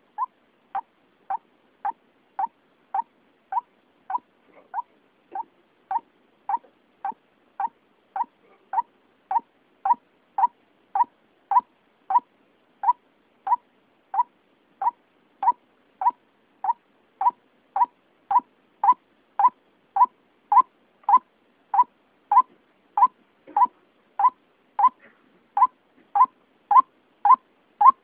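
White-breasted waterhen (ruak-ruak) calling, as a recorded hunting lure: one short note repeated evenly, a little under two a second, growing slowly louder.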